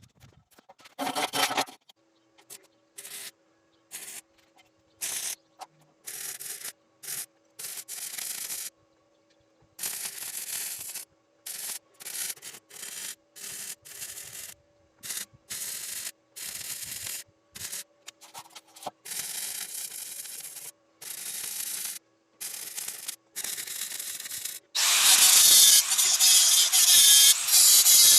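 Abrasive sanding on steel tubing in many short strokes with pauses between them, turning into a much louder continuous stretch of sanding about three quarters of the way through.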